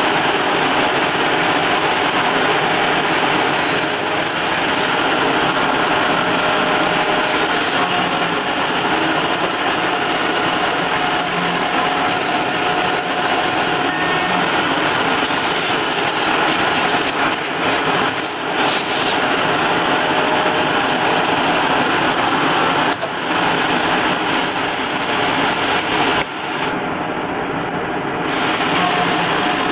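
Kress router spindle running at high speed on a home-built CNC milling machine, a 2 mm two-flute end mill cutting 3 mm aluminium dry at a slow feed: a loud, steady whirring with cutting noise, dipping briefly a few times in the second half.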